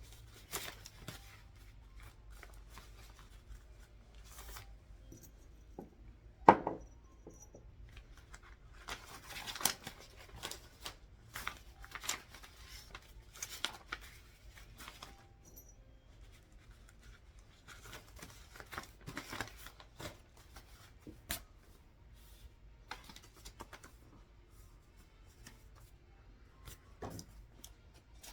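Paper being handled and sorted at a desk: short, scattered rustles and crinkles with small clicks between them, and one sharp, louder knock about six seconds in.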